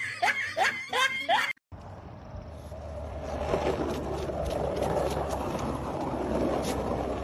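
Rhythmic laughter in quick repeated rising bursts, cut off abruptly about a second and a half in. It is followed by a steady low rumble with a hissing haze that slowly grows louder.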